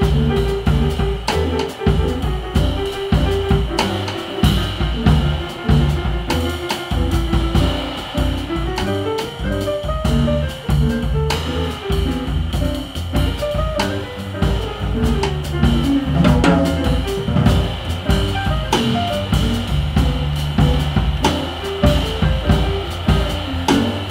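Jazz piano trio playing live: drum kit with bass drum and rim clicks driving a busy groove under piano runs that climb and fall, with bass underneath.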